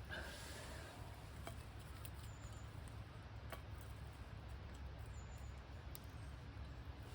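Open wood fire crackling faintly: a few scattered sharp pops and ticks over a low steady rumble.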